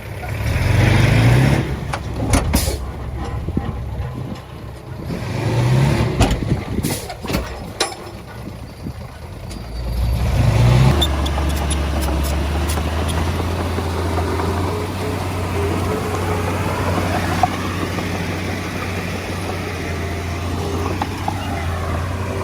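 Heavy diesel earthmoving equipment at work: the engine rises and falls in several swells, with sharp metallic clanks during the first half. From about halfway through, the engine runs on in a steady low drone.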